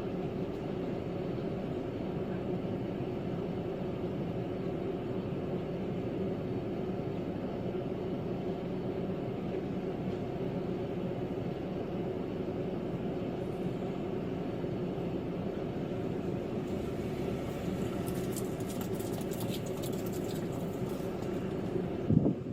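Steady vehicle engine and road noise, with a few light clicks and rattles in the last few seconds and a sharp knock at the very end.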